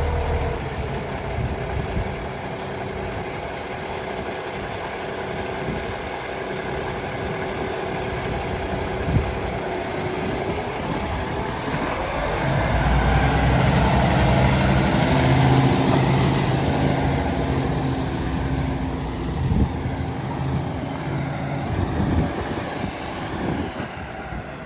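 Cummins ISX diesel engine of a 2016 International ProStar truck tractor running steadily. About halfway through, its note rises and grows louder for several seconds, then settles back down.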